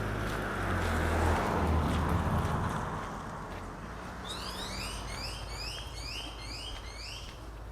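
Street sounds: a vehicle passes with a low engine hum during the first few seconds. From about four seconds in comes a fast, regular run of rising chirps, about three a second.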